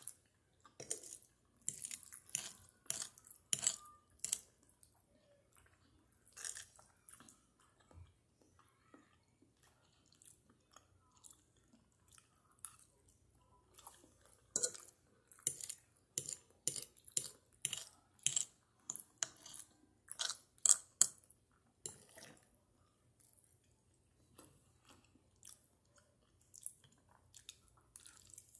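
Close-up mouth sounds of chewing spaghetti with meat sauce: sharp smacking clicks that come in runs, busiest in the first few seconds and again around the middle, with quieter chewing between.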